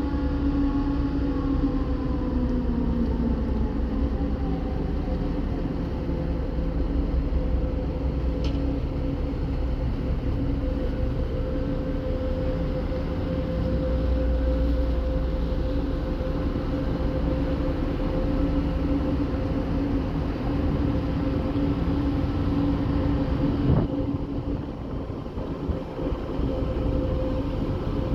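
Ferry's diesel engine running steadily: a low rumble under a constant hum. A faint falling tone fades out in the first few seconds, and there is a single knock near the end.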